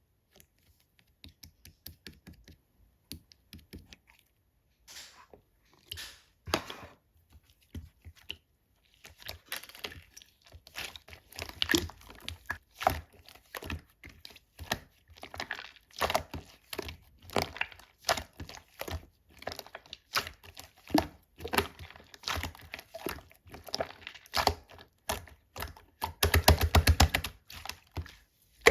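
Two-layer slime being squeezed and worked by hand, giving sticky clicks and pops. The pops are sparse for the first few seconds, then come thick and fast, with a quick rattling run near the end.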